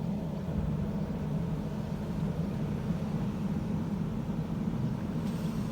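Steady low engine hum, running evenly throughout.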